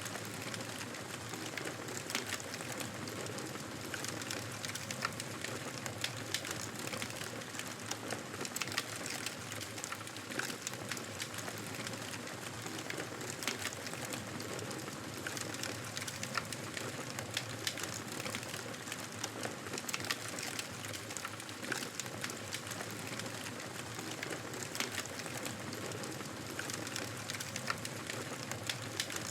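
Wood fire crackling in a fireplace: a steady soft hiss with many irregular sharp pops and snaps.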